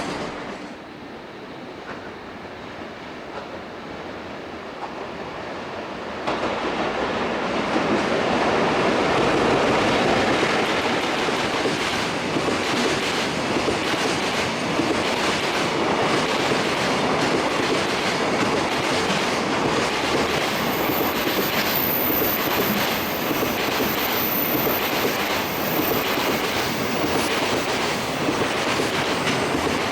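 A JR Freight EF81 electric locomotive hauling a long freight train past, quieter as it approaches, then loud from about six seconds in as the wagons clatter over the rail joints in a steady rhythm of clicks.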